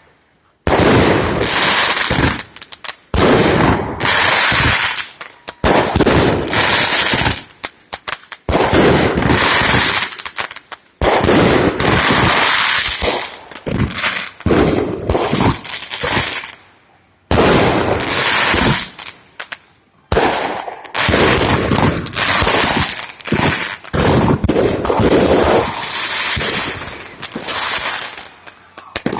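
Fireworks going off in rapid volleys of bangs and crackles, in loud stretches of several seconds broken by short gaps.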